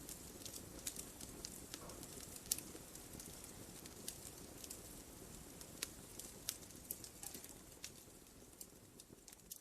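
Wood fire crackling: irregular sharp pops and snaps over a low, steady rumble of burning. The sound slowly fades near the end.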